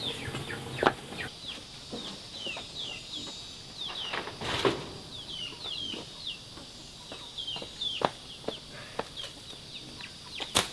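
Chicks peeping: a run of short, high chirps that slide downward in pitch, a few each second, with a few sharp knocks or rustles among them.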